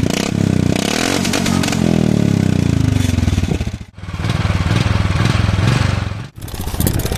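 Royal Enfield Classic 350's single-cylinder engine running through a Royal Enfield genuine tapered-end-cap silencer. The revs rise and fall in the first three seconds, and the sound breaks off sharply twice, about four and six seconds in, between short clips.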